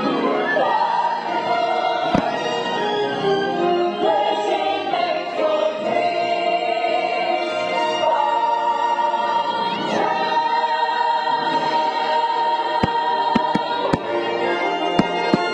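Fireworks-show music: a choir singing over an orchestral score, with a few sharp firework bangs, most of them near the end.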